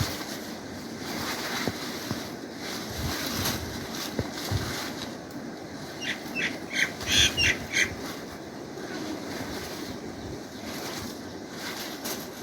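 Outdoor ambience with a steady background hiss, and a quick run of short, high bird chirps about six seconds in.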